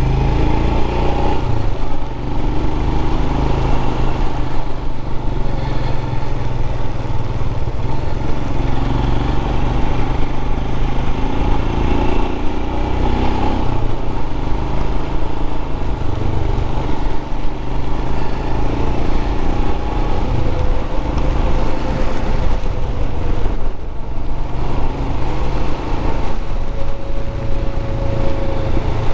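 Royal Enfield Scram 411's single-cylinder engine running steadily as the motorcycle rides along.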